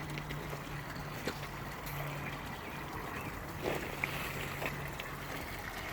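Water from a small backyard pond waterfall trickling and splashing in a steady wash, under a steady low hum, with a few faint ticks.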